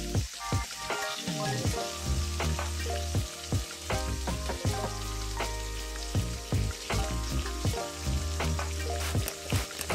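Crumbed chicken strips deep-frying in hot oil in a pan: a steady sizzle with crackling pops. Soft background music plays underneath.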